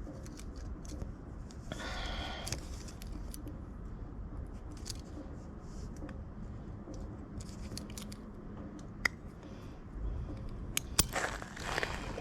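Hands working wires and small hand tools: scattered small clicks and scratchy rasps, with a sharp click about nine seconds in and a cluster of clicks and scraping near the end, as the wires are pinched together with vise grips.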